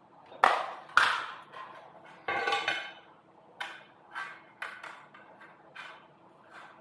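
Pieces of steel clanking and knocking with a metallic ring. There are two sharp strikes about a second in, then a short clatter, then several lighter knocks.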